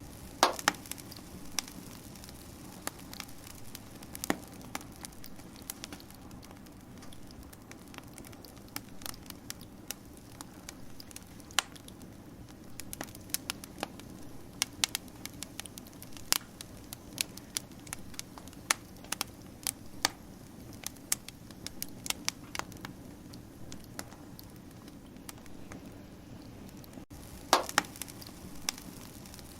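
Wood fire crackling: irregular sharp snaps and pops over a steady low rush of burning, with a couple of louder pops, one about half a second in and one near the end.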